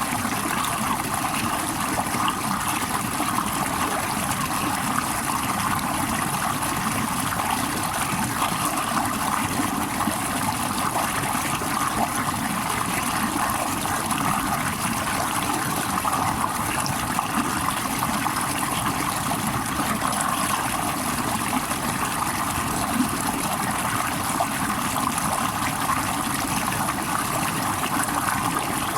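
Running water flowing steadily, a continuous unchanging rush.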